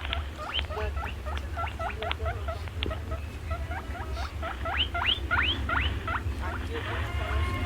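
A small animal squeaking rapidly: a quick run of short squeaks that each rise in pitch, several a second, with brief pauses, over a steady low hum.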